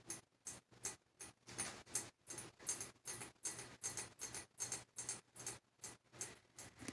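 Ceiling fan turning, with a faint steady hum and a regular tick about two or three times a second.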